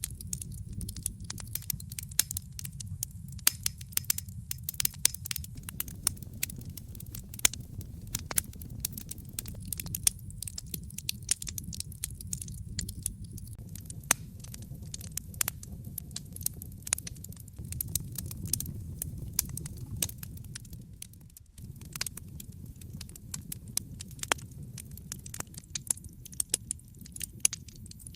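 Wood fire crackling, with many irregular sharp pops and snaps over a steady low rumble of flames. The rumble briefly drops out about three-quarters of the way through.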